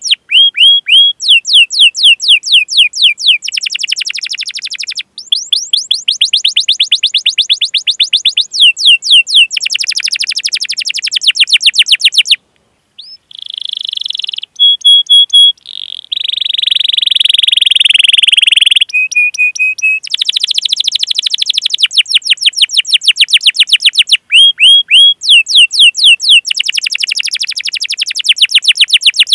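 Domestic canary singing a long song of fast repeated 'cuit cuit' chirps, in runs of a few seconds each. About halfway through there is a short pause, then a trill, a couple of held whistled notes and a buzzy rolling phrase before the rapid chirp runs return.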